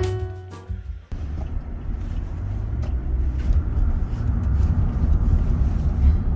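Music ends about a second in. A vehicle's steady low rumble takes over and grows slowly louder.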